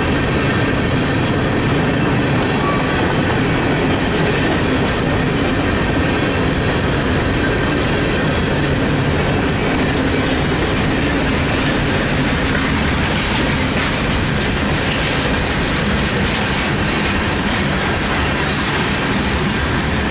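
Open-top freight cars of a CSX local freight train rolling past, their wheels making a loud, steady rumble and clatter on the rails.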